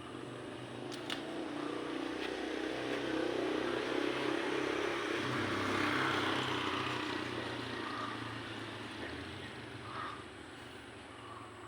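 Engine noise of a passing vehicle or aircraft, swelling to a peak about six seconds in and then fading, over a low steady hum.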